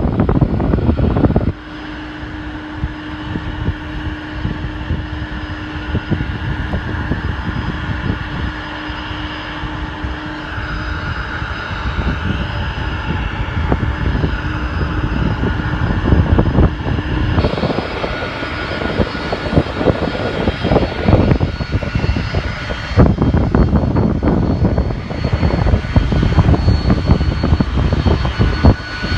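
Jet airliner engines running with a steady, many-pitched whine, under heavy wind buffeting on the microphone. The sound changes abruptly a few times.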